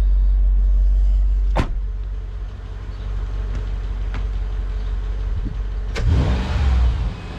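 Mercedes SL55 AMG's supercharged 5.4-litre V8 idling steadily. About one and a half seconds in there is a sharp click, after which the deep low rumble drops. Near the end a second click comes, followed by louder rustling noise.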